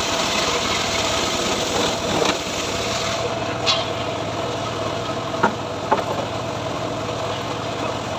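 Engine of a homemade srekel sawmill rig running steadily with a constant hum, with a few short sharp ticks in the middle.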